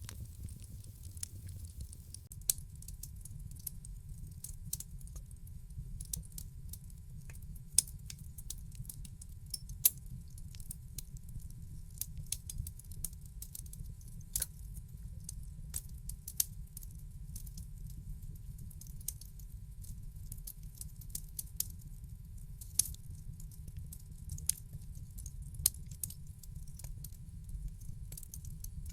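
Fire in a fireplace crackling: a steady low rumble under constant irregular snaps and pops, a few of them much louder.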